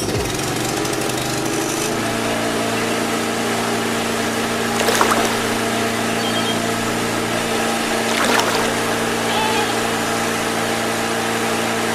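Small electric water pump motor running with a steady hum, water pouring and splashing; the hum settles to an even pitch about two seconds in, with two brief louder splashes or scrapes later on.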